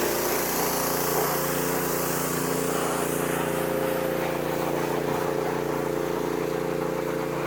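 An engine running at a steady speed: an even hum that holds the same pitch throughout, over a constant hiss.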